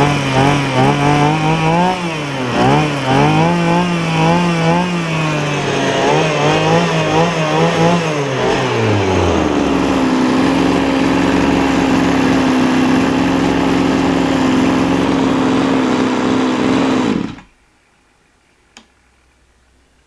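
Small 26.5cc single-cylinder two-stroke engine running. Its speed rises and falls unevenly for the first half, then it holds a steady, higher speed, and it stops suddenly about three-quarters of the way through.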